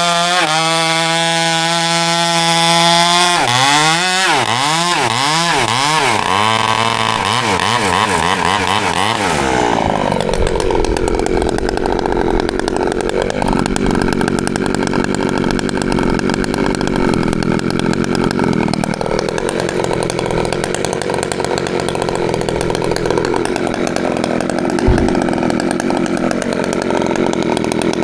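Rebuilt Husqvarna 365 two-stroke chainsaw running: steady for a few seconds, then revved up and down repeatedly, then running hard with a dense sound whose pitch sags and recovers several times. A single sharp click comes about 25 seconds in.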